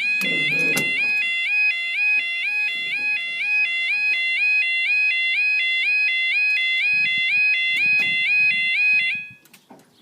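Level crossing audible warning alarms, older Clifford and Snell units, sounding a steady two-tone alternating wail. They cut off abruptly about nine seconds in.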